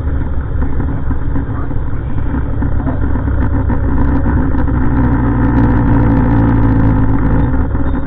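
Heavy diesel garbage truck engine running close by, its low drone growing louder with a steadier tone from about four seconds in.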